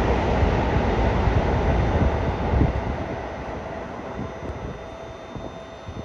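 Running noise of a Yokohama Minatomirai Railway Y500 series electric train, a heavy low rumble of wheels on rails that eases off about halfway through and settles at a lower, steadier level.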